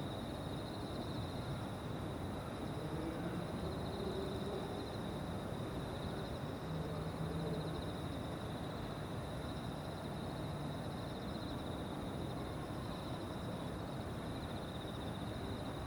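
Evening insects trilling steadily: a continuous high, finely pulsing trill with a fainter, even higher one above it, over a low, steady background rumble.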